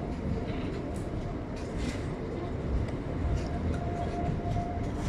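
A long train rolling over a railway bridge overhead: a steady low rumble of wheels on the rails, with a faint steady whine that comes in about three seconds in and drops away near the end.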